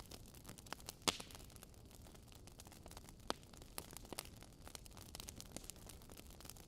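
Fire crackling: irregular sharp pops and snaps over a soft hiss, the loudest snap about a second in and another a little after three seconds.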